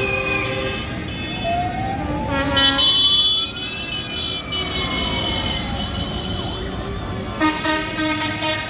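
Vehicle horns honking in long blasts, with a siren winding up and then back down in the middle, over a steady rumble of engines.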